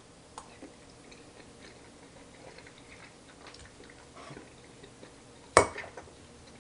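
A person quietly chewing a bite of cooked salmon and quinoa, with faint scattered clicks and one short, louder sound near the end.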